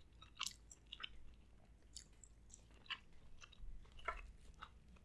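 Faint, close-miked chewing of a mouthful of shrimp: soft, irregular wet mouth clicks and smacks.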